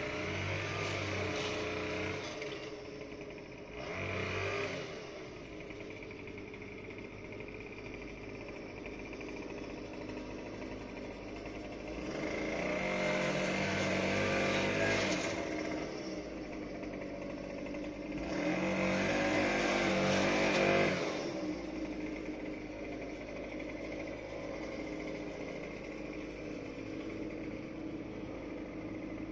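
Small gasoline engine of lawn equipment running steadily, with four louder surges of a few seconds each as it revs up or comes closer: one at the start, a short one a few seconds later, and two longer ones in the middle.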